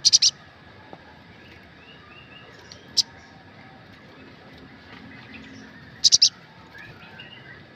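Sunbird (sogok ontong) calling in sharp, very high chirps: a quick run of three at the start, a single one about three seconds in, and another run of three about six seconds in, with faint softer chirping between.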